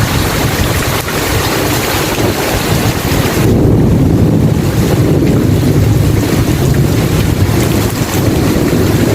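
Steady heavy rain hiss, then about three and a half seconds in a long low rumble of thunder swells and rolls on until near the end, while the rain's high hiss thins out.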